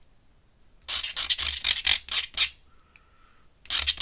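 Ink pen scratching across sketchbook paper in quick, short hatching strokes: a run of about seven strokes a second in, then another run near the end.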